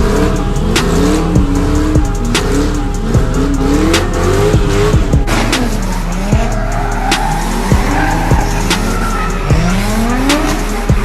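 Car engine revving up and down repeatedly with tyres squealing, mixed with music that has a steady beat.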